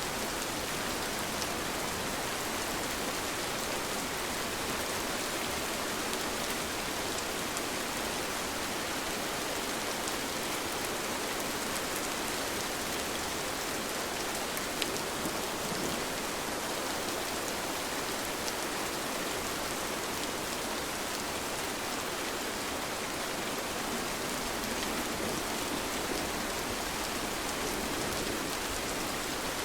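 Steady rain falling, an even hiss with scattered drop ticks and one sharper drop tick about halfway through.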